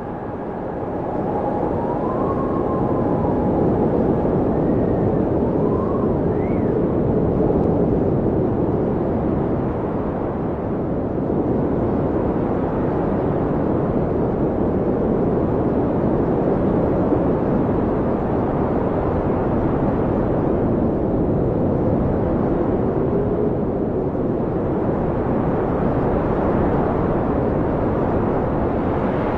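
Blizzard wind blowing hard in a steady low rush, with faint howling whistles that glide up and down in the first several seconds.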